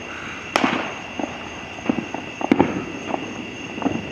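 Consumer fireworks going off in the distance and close by: a scatter of separate bangs and pops, one about half a second in that echoes, then sharp cracks at about two, two and a half and four seconds.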